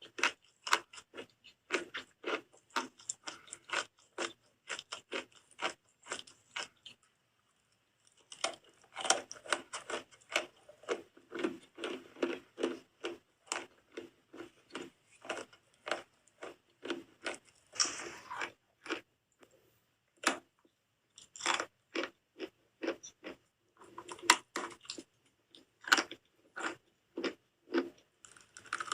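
Soap being bitten and chewed, a dense run of sharp crunching crackles that breaks off briefly about seven seconds in and again around twenty seconds.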